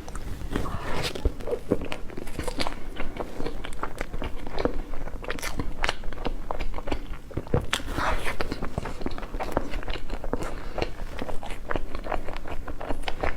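Close-miked eating of cake: biting and chewing, a steady run of small mouth clicks and smacks.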